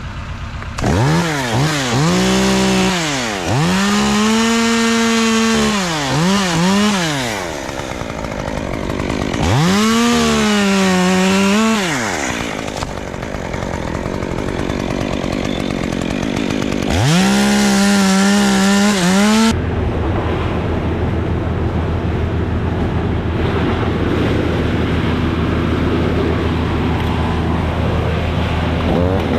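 Two-stroke chainsaw revved to full throttle in four bursts of a few seconds each, dropping back between them. Over the last third a steadier, lower engine drone runs without the high revs.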